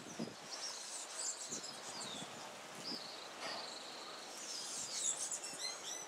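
Small birds chirping and whistling: a busy run of short high notes, several sliding downward, over a faint steady outdoor background.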